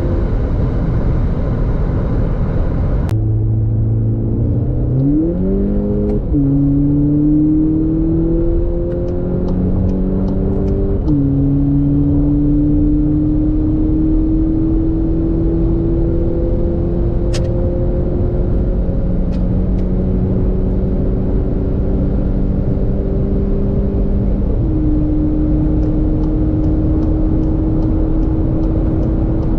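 2019 VW Polo GTI's 2.0 TSI turbocharged four-cylinder, with its mid-silencer deleted, pulling hard under full acceleration. Its note climbs steadily in pitch and drops sharply at upshifts about 6, 11 and 25 seconds in, each climb slower than the last as the car nears its top speed; faint rapid ticking comes through now and then.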